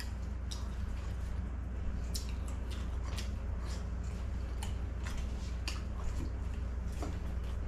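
Close-up eating sounds: scattered short, wet clicks and smacks of a person chewing food eaten by hand, over a steady low hum.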